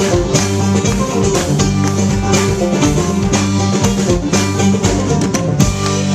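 Bluegrass band playing live: quick picked strings over a drum kit in an instrumental passage, landing on a final accented chord about five and a half seconds in that rings on.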